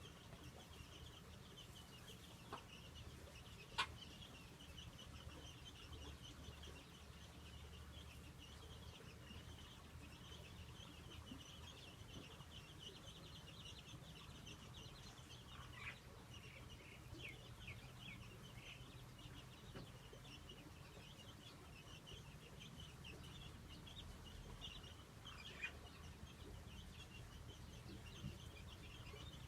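Faint, continuous high chirping of birds, with a few short falling calls and one sharp click about four seconds in, over a low steady rumble.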